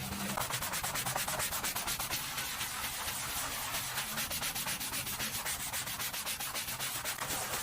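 Rapid back-and-forth scrubbing on a hard surface, an even rasping rhythm of about six strokes a second.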